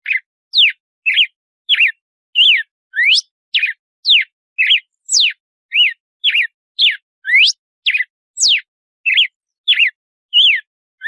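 Red-cowled cardinal (galo-de-campina) singing its 'açoite' song: a steady run of short, clear whistled notes, about two a second, some sweeping up in pitch and others down.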